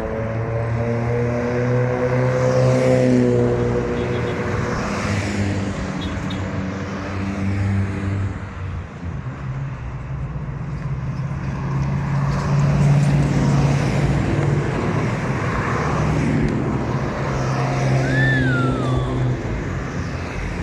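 Trucks in a convoy driving past, their engines running steadily. A held chord of several tones sounds over the engines in the first few seconds, and a short high gliding tone comes near the end.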